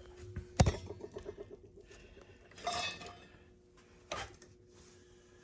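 Metal clank and rattle from handling the boiler's gas burners, a sharp knock about half a second in that rattles away, then a few lighter clinks, over a faint steady hum.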